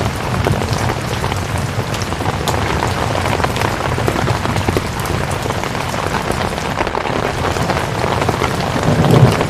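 Steady rain falling, a dense even hiss full of small drop ticks. A brief low rumble swells up near the end.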